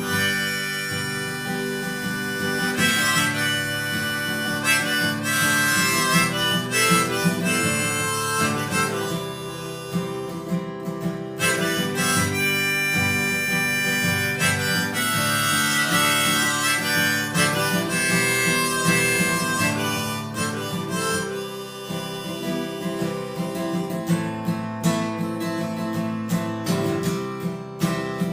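Harmonica playing an instrumental solo over strummed acoustic guitar, with no singing.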